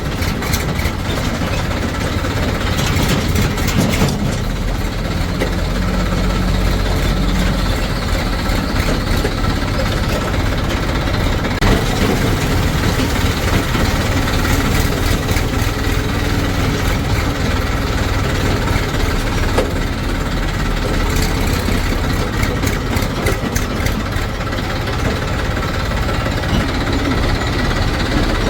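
A heavy diesel engine running steadily, with a few brief clanks mixed in.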